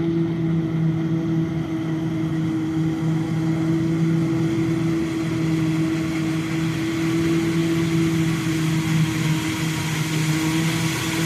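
Heavy farm machinery engine running steadily at a constant speed, with a steady low hum.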